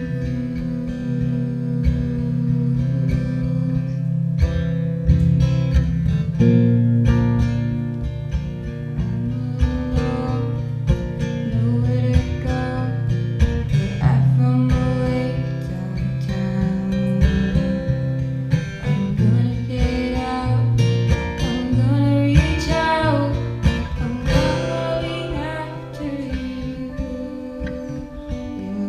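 A slow song played live on acoustic guitar and organ, the organ holding low chords under the strummed guitar, with a woman singing over them.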